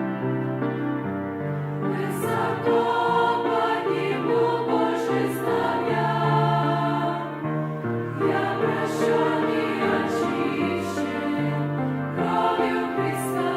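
Church choir singing a Russian-language hymn, several voices in harmony holding long notes that change every second or so.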